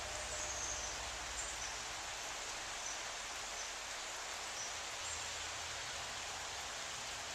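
Steady rain falling, an even hiss throughout, with a few faint high chirps.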